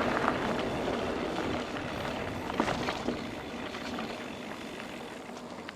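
Mountain bike rolling over a meadow, heard as steady wind and tyre noise on an action-camera microphone. The noise fades gradually, with a couple of faint knocks about halfway through.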